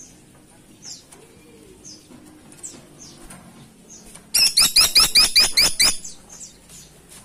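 Caladi tikotok woodpecker calling: a loud, rapid run of about eight sharp, downward-sweeping notes over about a second and a half, starting just past halfway. Faint short high chirps sound before and after it.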